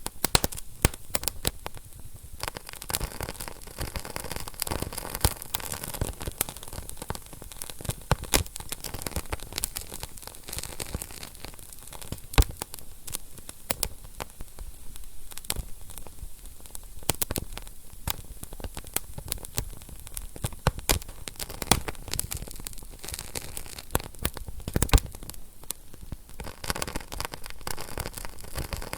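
Wood fire burning in a fireplace, crackling steadily with dense irregular snaps and now and then a louder pop.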